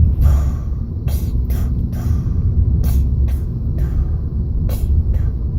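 Steady low rumble like a vehicle running, with irregular sharp clicks and knocks on top of it.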